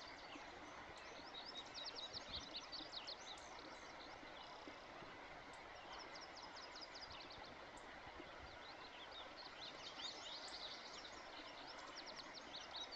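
Songbirds singing in several short runs of rapid, high chirping notes over a faint, steady outdoor hiss.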